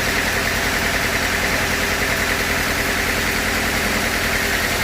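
Sawmill machinery running steadily: an engine-like drone with a fast, even low pulse and a constant high hum, with no change in load.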